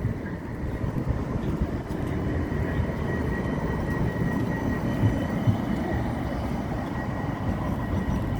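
A large vehicle running close by: a steady low rumble with a thin, high, steady whine above it.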